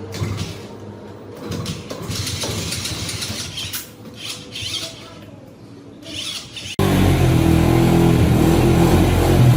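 Small underbone motorcycle engine running steadily, cutting in abruptly about seven seconds in. Before it come irregular clattering and handling noises.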